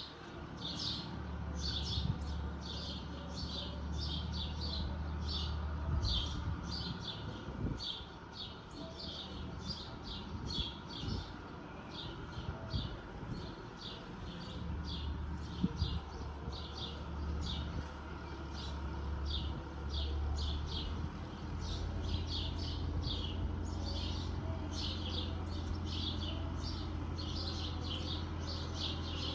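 Small birds chirping rapidly and repeatedly, several short chirps a second, over the low steady drone of a distant tractor engine that fades for a few seconds in the middle and then comes back.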